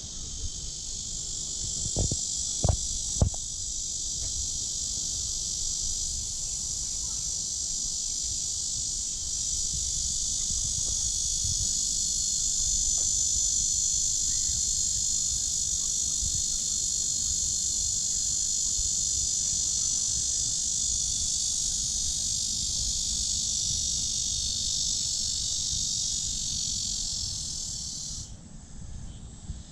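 Loud, steady high-pitched drone of a chorus of summer cicadas, which cuts off abruptly near the end. A few sharp knocks sound about two to three seconds in.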